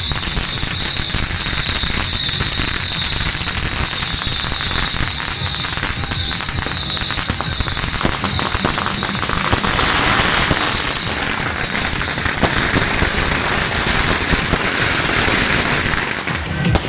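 A string of firecrackers going off in a rapid, continuous crackle of loud pops.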